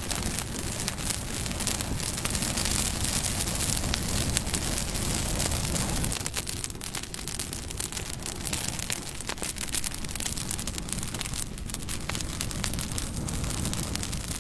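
Wood fire burning with a steady crackle and many small sharp pops.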